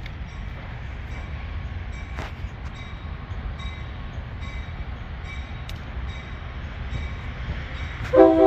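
Metra F40PH diesel locomotive rumbling steadily as it shoves a train, with a faint high ringing about every 0.6 seconds. Near the end the air horn comes in loud, a chord of several tones.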